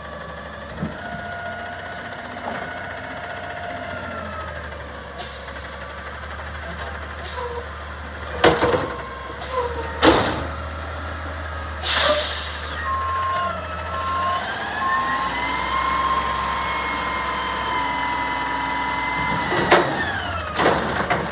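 Garbage truck's engine running under a whine that rises and falls, with several loud metal bangs, an air-brake hiss about twelve seconds in, then a short run of reversing beeps and a steady higher whine.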